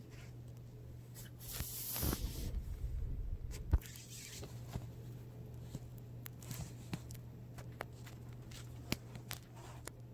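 Hands handling a laptop screen panel as it is refitted: a rustle about two seconds in, a sharp click just before four seconds, then scattered light clicks and taps, over a steady low hum.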